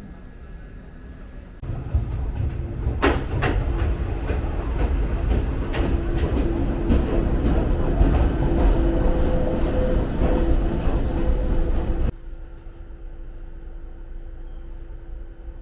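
Jōshin Dentetsu electric train running on the rails: a loud rumble with wheel clicks and a faint steady tone. It starts suddenly about a second and a half in and cuts off suddenly about twelve seconds in, leaving a quieter hum.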